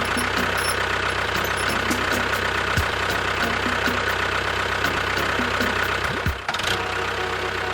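An engine running steadily at idle, with a brief dip about six seconds in after which the sound changes slightly.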